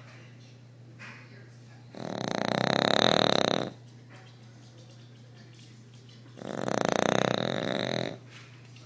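An overweight dog snoring very loud while asleep. Two long snores, each nearly two seconds, come about four and a half seconds apart, each swelling and fading, with quiet between the breaths.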